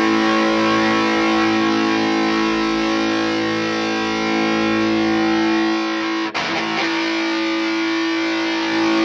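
Electric guitar played through the Neural DSP Mesa Boogie Mark IIC+ amp model: a chord left ringing for about six seconds, then struck again and held.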